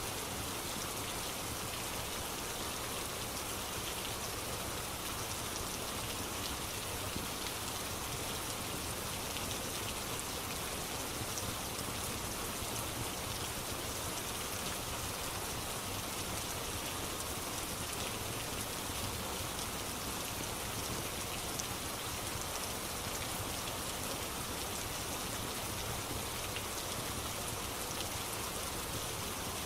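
Steady rain falling on a surface, an even hiss with scattered faint ticks.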